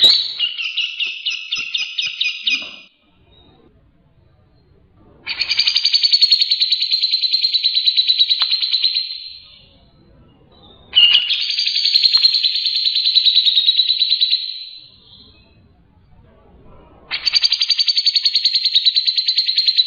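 Grey-cheeked bulbul (cucak jenggot) calling in four bouts of rapid, pulsed chattering notes, each lasting a few seconds and trailing off, with short pauses between.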